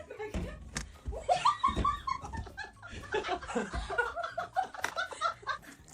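People laughing, a string of short repeated laughs starting about a second in and running on in quick bursts.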